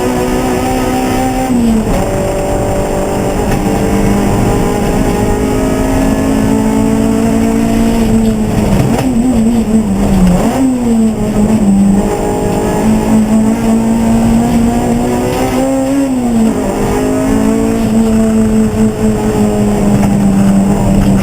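Race car engine running hard at high revs, its note held mostly steady and dipping and climbing back three times, about two seconds in, around the middle and about three quarters through.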